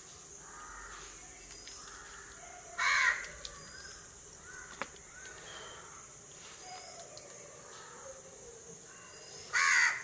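A bird calling loudly twice, about six seconds apart, each call short and harsh, over a steady high-pitched hum and faint chirping.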